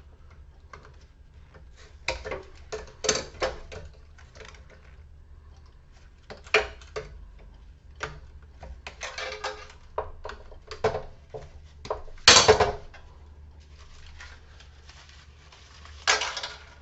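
Wire cutters snipping the old lead wires off a metal sign-transformer ballast, with scattered clicks and clinks of metal being handled. A louder clatter comes about twelve seconds in, and another near the end.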